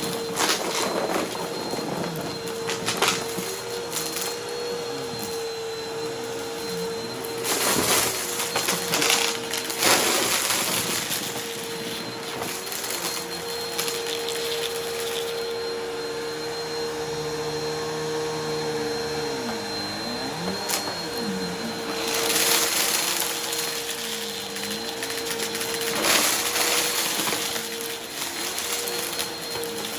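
Bissell upright vacuum cleaner running with a steady whine, lower tones dipping and rising beneath it. Bursts of crackling come as it sucks up mess-test debris from the rugs, heaviest around 8 to 10 seconds in and again around 22 seconds.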